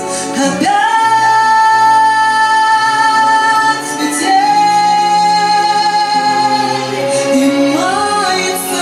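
A female voice sings long held notes over instrumental backing music: two sustained notes, then a short rising phrase near the end.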